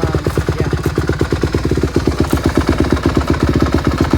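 A 2020 Honda CRF150R B's 149 cc single-cylinder four-stroke engine idling steadily after a cold start, its exhaust pulses coming as an even rapid beat of about a dozen a second.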